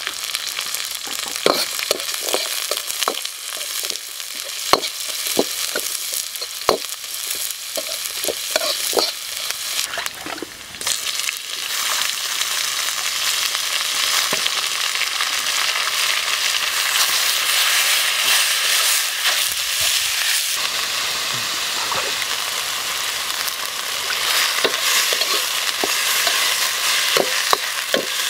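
Oil sizzling in a steel wok over a wood fire, with garlic, chili and aromatics frying amid scattered pops and spatters. About eleven seconds in the sizzle turns suddenly louder and steadier as sliced chicken liver and heart fry in the hot wok, and near the end a metal ladle stirs and clicks against the wok.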